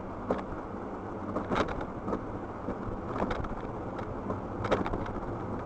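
A car driving: a steady low road-and-engine rumble with scattered short knocks.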